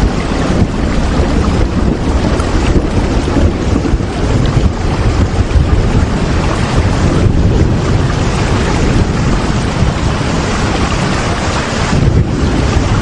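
Steady rain: a dense, even rushing hiss with a strong low rumble underneath.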